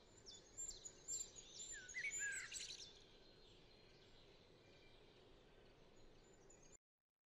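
Faint songbird calls, a quick series of short high falling notes and a few chirps, over quiet outdoor ambience for about the first three seconds. After that only a faint steady hiss remains, which cuts off to silence near the end.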